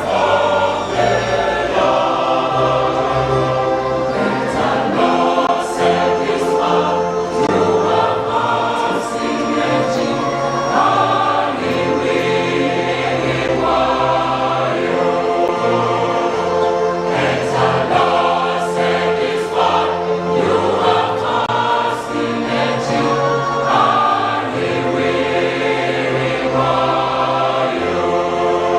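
Choir singing a hymn together, with several voice parts holding notes that change every second or so.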